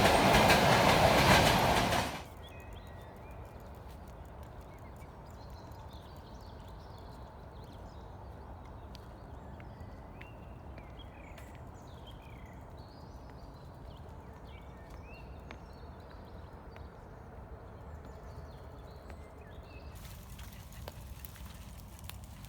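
A loud rushing noise stops abruptly about two seconds in. After it, small birds chirp and sing over a quiet background.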